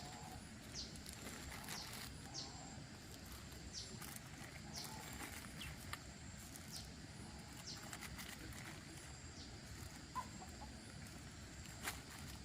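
Faint outdoor ambience with short, high, downward-sliding chirps from small birds or chicks, roughly one every second, and a few soft clicks.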